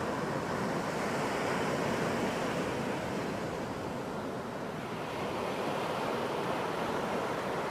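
Ocean surf washing onto a beach: a steady rushing wash of breaking waves that swells gently and eases again.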